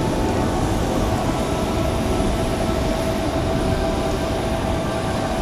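Steady jet noise from a KC-46A tanker's twin turbofan engines in flight, with a faint steady whine running through it.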